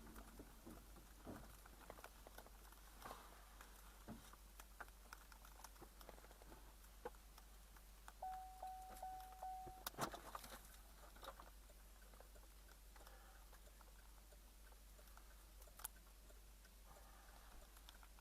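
Near silence, with faint scattered clicks and a short, faint beeping tone about eight seconds in.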